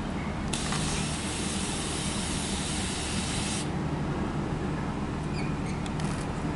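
Electric multiple-unit train standing at the platform: a loud hiss of released air from its pneumatic system, starting about half a second in and cutting off sharply about three seconds later, over the train's steady low hum.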